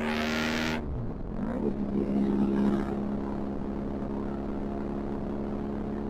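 Benelli TRK 502X parallel-twin engine running through an Arrow exhaust with the dB killer removed, at steady riding revs. A loud hissing rush lies over the first second; then the engine note dips and settles a little lower, and runs steady.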